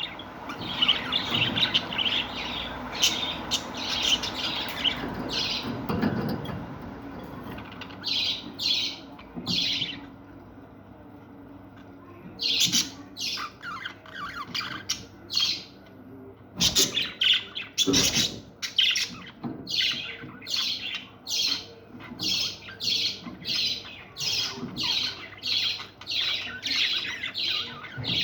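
Caged parrots calling, a stream of short high chirps and squawks with a brief lull about ten seconds in. Two sharp knocks come just after the middle, and near the end the calls settle into a regular run of one or two a second.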